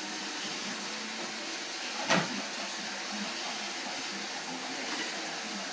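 Roomba robot vacuum running with a steady whirring hiss, with a single sharp knock about two seconds in.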